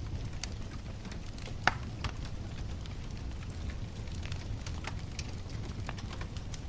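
Wood bonfire burning: scattered crackles and pops over a steady low rumble, with one sharp pop a little under two seconds in.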